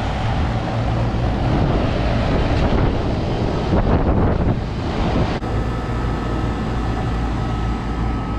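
Rooftop air-conditioning unit running with both cooling stages jumped on: a steady hum of compressor and condenser fan, with wind buffeting the microphone. A sharp click comes about five seconds in, and a faint steady high tone follows.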